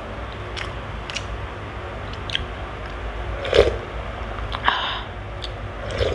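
Close-miked chewing of a mouthful of crispy okoy fritter and rice, with wet mouth clicks and a few short crunches scattered through, the loudest about halfway in.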